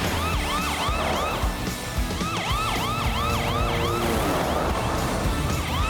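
Cartoon police car siren, a fast yelp rising and falling about four times a second, sounding in three runs with short breaks, over background music.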